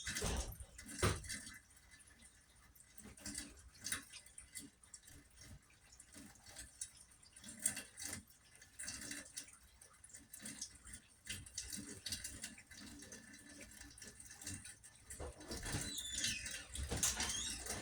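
Rainwater dripping: faint, irregular drops and ticks.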